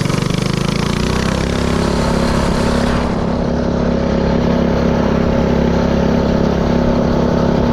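Predator 224cc single-cylinder four-stroke engine of a mini-bike running under way, its pitch rising over the first second or so and then holding steady. Wind rushes across the microphone for the first three seconds.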